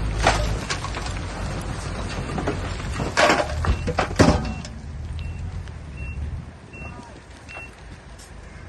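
Heavy earthmoving machinery running with a deep engine rumble and loud clattering knocks around the middle, then fading away. Through the second half a reversing alarm beeps at an even rhythm.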